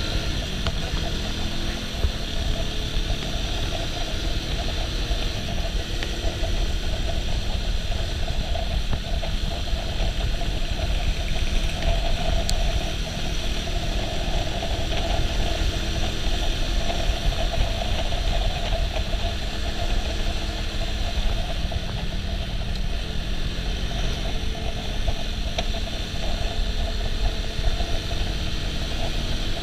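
Suzuki Shooter FV110's small single-cylinder four-stroke engine running steadily while the motorcycle cruises at low speed, with wind noise on the microphone.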